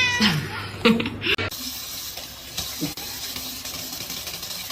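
Running water, a steady even hiss that starts about a second and a half in, after the tail of a cat's meow and a few short chirping sounds at the start.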